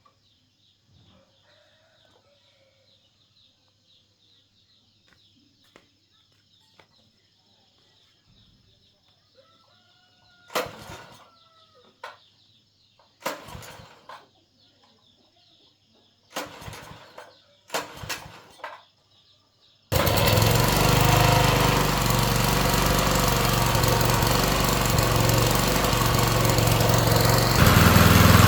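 A small petrol engine is cranked in four short attempts that each die out, then catches about two-thirds of the way in and keeps running, revving up near the end.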